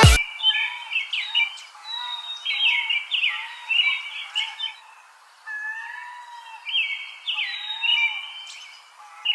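Birds chirping and singing: many quick high chirps, with a lower arching call repeated beneath them.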